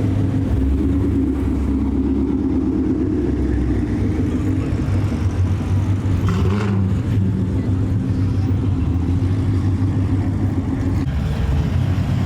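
Car engines rumbling steadily at low revs as cars roll in slowly.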